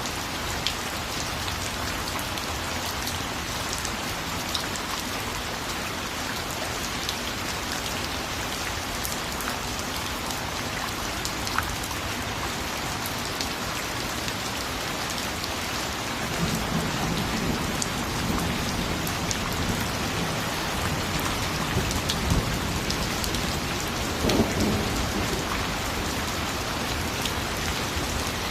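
Steady, heavy rain falling, with scattered drops tapping on a surface. Just past halfway through, a low rumble of thunder comes in and rolls on for about ten seconds, swelling near the end before fading.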